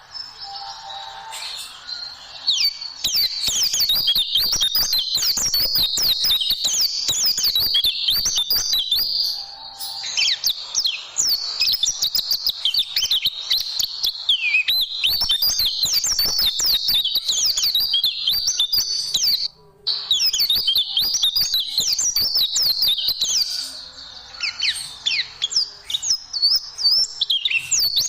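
Oriental white-eye (pleci) singing a rapid, unbroken run of high chirps and trills that sweep up and down. The song breaks off for a moment about two-thirds of the way through.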